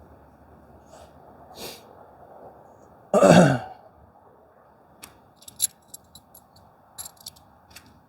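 A man's loud sigh about three seconds in, falling in pitch, followed by a scatter of light clicks and taps as tent cord and hooks are handled.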